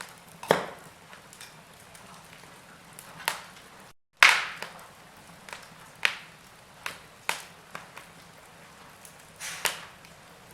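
Log fire crackling in a fireplace: irregular sharp pops and cracks from the burning wood, several seconds apart, over a low steady hiss. The sound cuts out for a split second about four seconds in, and the loudest crack comes right after.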